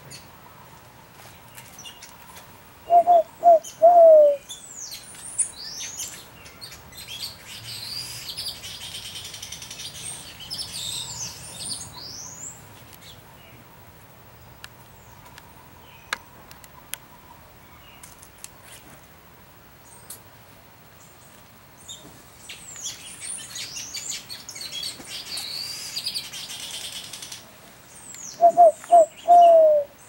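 Birds calling: high twittering and chattering in two long stretches, and twice a loud, low three-note call, two short notes then a longer one that falls in pitch.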